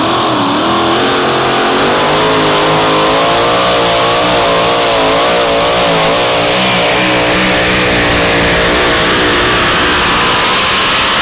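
Super modified two-wheel-drive pulling truck's engine held at full throttle during a pull, loud, its pitch climbing at the start and then wavering up and down throughout.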